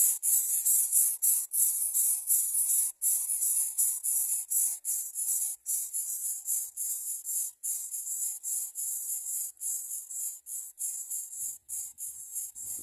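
A high-pitched hiss, chopped into quick uneven pulses by brief dropouts several times a second; a fainter low sound comes in near the end.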